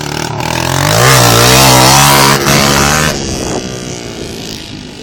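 Dirt bike engine revving up about a second in and holding high revs, then backing off at about three seconds and fading.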